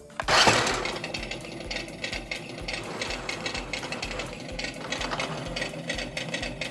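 New Bright Rhinomite 1/10 RC monster truck driving, its four electric gear motors running with a steady buzzing whir and rattle that starts abruptly about a third of a second in.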